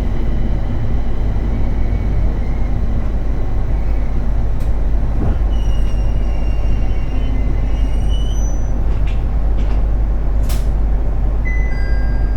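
Interior running noise of a JR East 701 series 1000-subseries electric train: a steady low rumble of wheels on rail. Faint high whines come in around the middle, then a few sharp clicks, and short electronic tones sound near the end.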